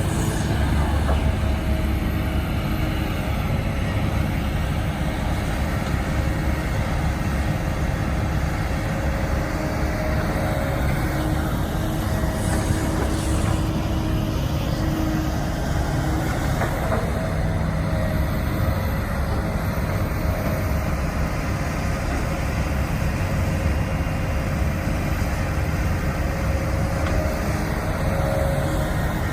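Diesel engine of heavy earthmoving machinery, an excavator or bulldozer, running steadily, with faint steady tones that come and go.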